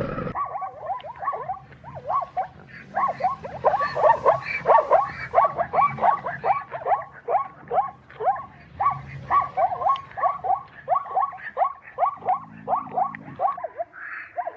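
An animal calling over and over with short squeaky calls, each falling in pitch, about three a second.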